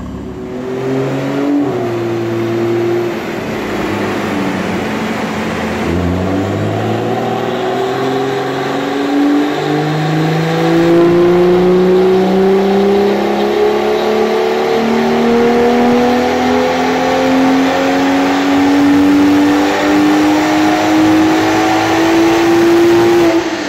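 BMW M2's turbocharged straight-six on a rolling-road dyno, breathing through a decat Scorpion turbo-back exhaust, in a mapping pull. After some uneven revving in the first few seconds, the engine note climbs steadily for about seventeen seconds, then drops away suddenly at the end as the run is finished.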